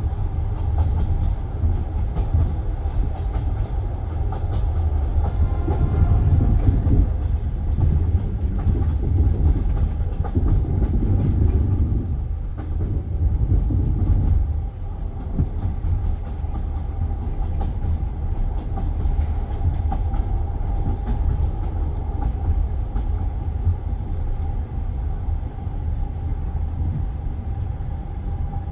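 Passenger train carriage running on the rails, heard from inside by the window: a steady low rumble with the wheels clicking over rail joints, as the train comes into a station. The rumble eases a little about halfway through.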